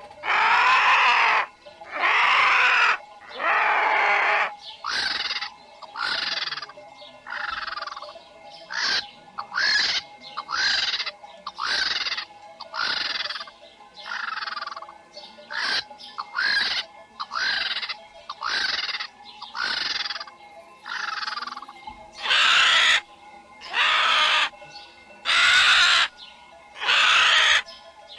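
A bird giving harsh, repeated calls: a few long calls, then a run of shorter ones at about one a second, and longer, louder calls again near the end.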